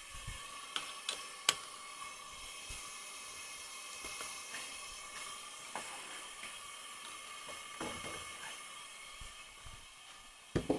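Steady hiss of a compressed-air vacuum generator running to hold a bowl on a lathe vacuum chuck. A few light clicks in the first couple of seconds and a knock near the end.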